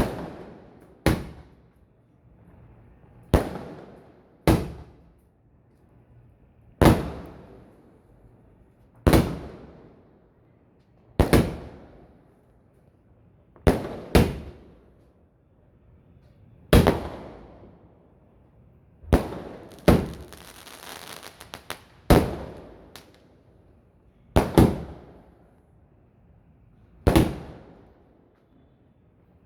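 Multi-shot aerial fireworks cake firing: a sharp bang about every two seconds, each trailing off in an echo, some coming in quick pairs. Around two-thirds through a burst of dense crackling joins in.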